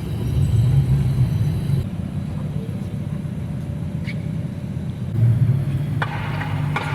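Modified cars' exhausts rumbling as they drive slowly past, swelling louder twice.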